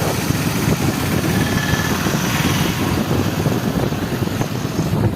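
Steady motorcycle riding noise: engine running with a dense rush and low fluttering rumble, the hiss easing off near the end.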